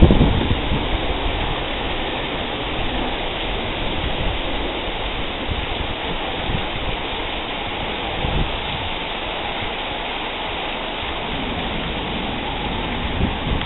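Heavy rain pouring steadily in a thunderstorm, with wind buffeting the microphone in low rumbling gusts, the strongest right at the start.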